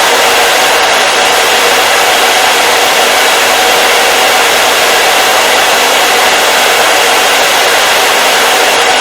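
Hair dryer running steadily on one setting: an even, loud rushing hiss of blown air with a faint motor hum, unchanging throughout.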